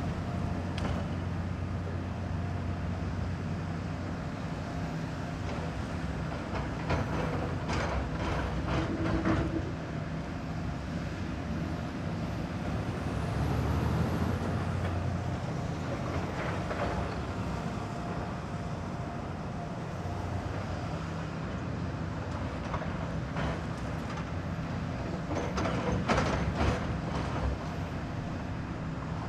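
Diesel engine of heavy construction machinery running steadily, swelling briefly about halfway through, with sharp metallic clanks now and then.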